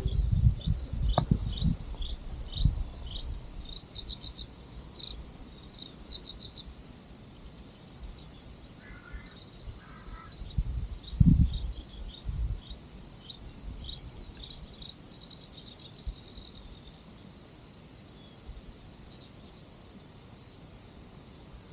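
Small birds chirping in quick, repeated short high notes, thinning out toward the end. Low rumbles break in now and then, the loudest about eleven seconds in.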